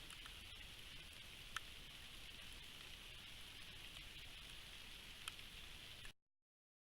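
Faint steady patter of rain, with two louder single drop ticks about a second and a half in and near five seconds. The sound cuts off suddenly about six seconds in.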